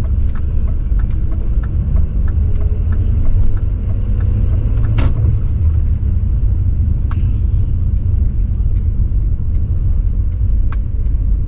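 BMW E39 540i's 4.4-litre V8 pulling at low revs on the move, a deep, steady exhaust rumble. Faint sharp ticks come at a regular beat over it, and there is one louder click about five seconds in.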